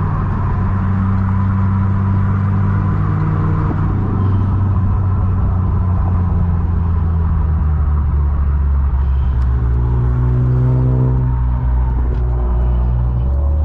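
Car engine and road noise while driving: a loud, steady low drone, its pitch shifting a little in the last few seconds.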